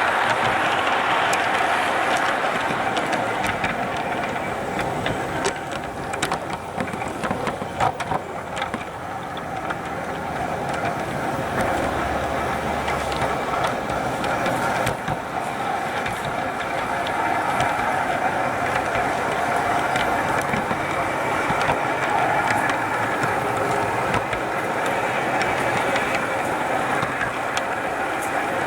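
G-scale model train running around a garden track, picked up by a camera riding on the train. A steady rolling, running noise comes through, with frequent small clicks and rattles.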